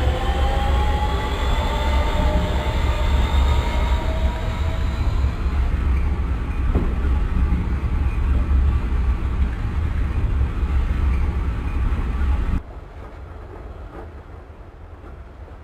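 ML90 metro train running, its traction motor whine rising in pitch over the first few seconds as it accelerates, over a steady heavy rumble of the running gear. About twelve and a half seconds in, the sound drops off sharply to a much quieter level.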